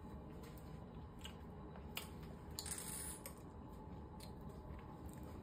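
Faint chewing of a mouthful of soft Reese's caramel cup, with a few soft clicks and a brief hiss about halfway through.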